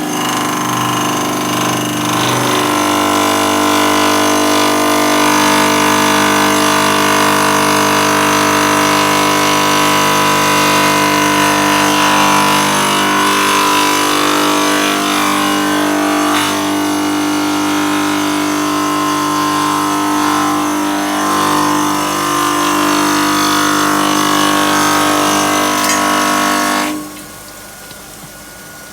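Stone-cutting machine running with a loud, steady whine of several tones. It cuts off about two seconds before the end, leaving a quieter hiss.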